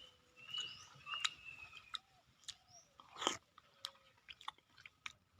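Close-miked mouth sounds of someone eating grilled banana: soft chewing with wet clicks and smacks, and one louder smack or slurp a little after three seconds in.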